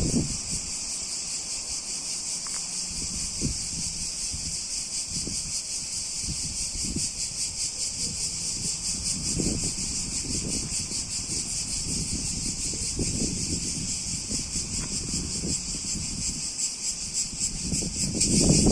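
Chorus of crickets, a steady high-pitched trill with a fine rapid pulse. Low gusts of wind buffet the microphone, rising near the end.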